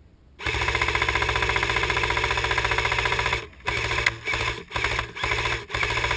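Airsoft gun firing on full auto, loud: one unbroken burst of about three seconds, then four or five short bursts.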